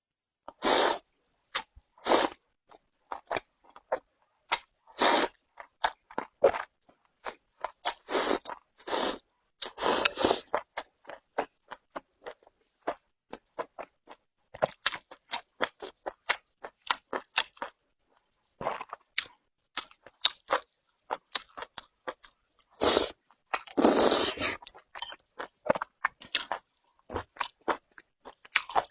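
Close-up chewing of Beijing-style boiled beef tripe coated in sesame paste. The bites make many short, crisp crunches at irregular intervals, with a couple of longer, denser stretches of chewing, about ten seconds in and again near twenty-four seconds.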